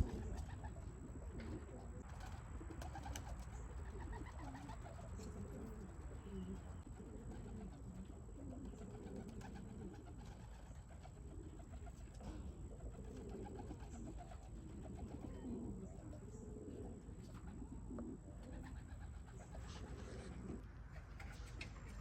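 Domestic racing pigeons cooing, low warbling coos following one another throughout, over a steady low rumble. A brief knock right at the start.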